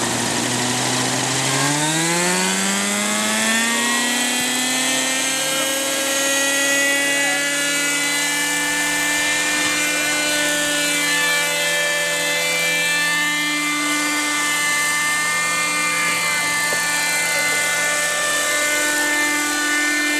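Hirobo Shuttle radio-controlled helicopter's small glow-fuel engine opening up from idle. Its whine rises steeply in pitch over a few seconds, starting about two seconds in, then holds a steady high whine.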